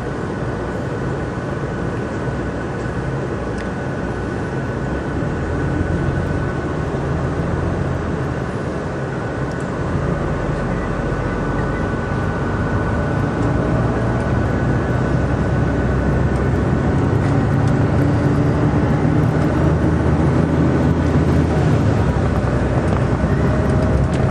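Tour bus engine and road noise heard inside the bus cabin, a steady low rumble that slowly grows louder as the bus gets under way, with a thin steady whine over it.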